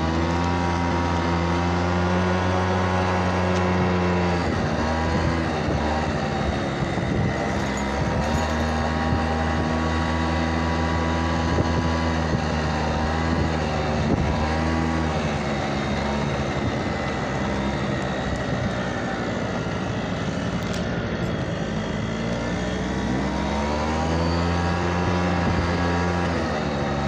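Small motorbike engine running while riding, with wind noise on the microphone. The revs drop about four seconds in, hold steady through the middle, then climb again near the end.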